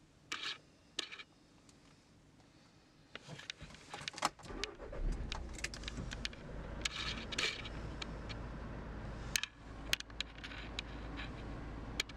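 Car keys jangling and clicking at the ignition, then the car's engine starts about five seconds in and settles into a steady low idle, with more key rattles and clicks over it.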